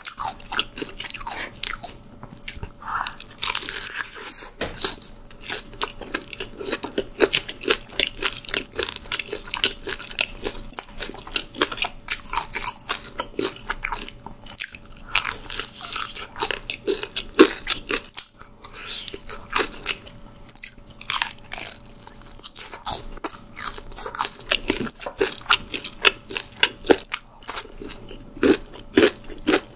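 Close-miked crunching and chewing of crispy fried chicken: dense, irregular crackles as the drumstick's coating is bitten and chewed.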